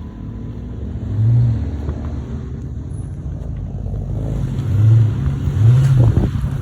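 Car engine rumbling loudly, revved up in short swells three times.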